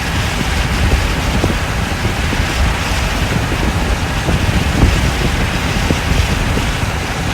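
Vehicle driving on an unpaved dirt road, heard from inside the cabin: a steady loud rumble of tyres and road noise with a hiss over it.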